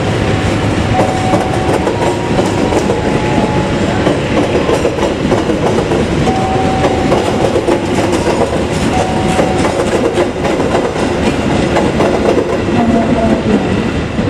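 Passenger train coaches rolling past on the rails, a steady clatter of wheels over the rail joints, with short high-pitched squeals now and then.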